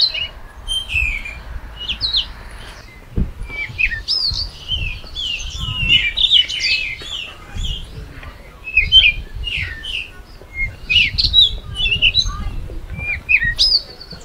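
Several small birds chirping and calling in trees and hedges, with short high chirps and quick sliding notes overlapping all the way through, over a low uneven rumble.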